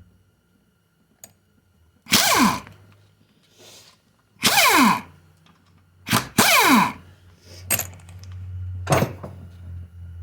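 A handheld power driver run in four short bursts, its pitch falling as it spins down after each, as it undoes bolts. A steady low hum runs underneath.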